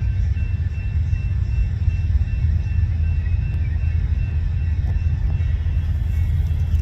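Freight train passing with a steady, heavy low rumble.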